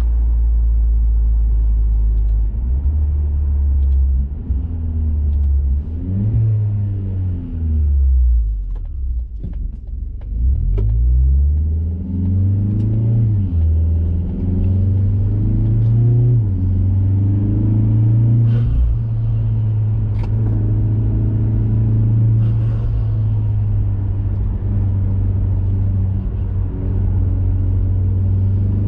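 2021 Mazda 3 Turbo's 2.5-litre turbocharged four-cylinder running through a CorkSport 80mm cat-back exhaust and high-flow intake. The revs climb and fall several times in the first half as the car accelerates and changes gear, then settle into a steady low drone at cruise.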